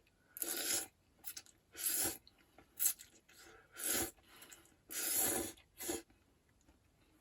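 A series of about six short rasping scrapes, roughly a second apart.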